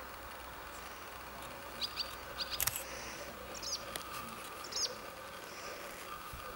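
A small bird chirping: four short pairs of high chirps spread over a few seconds, with one sharp click about two and a half seconds in.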